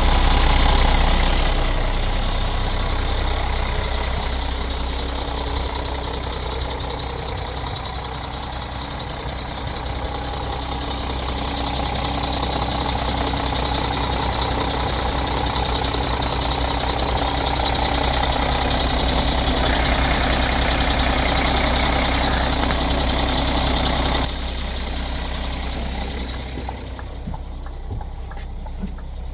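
Scania G410 truck's 13-litre six-cylinder diesel engine idling steadily. The sound drops abruptly about 24 seconds in and fades a little further near the end.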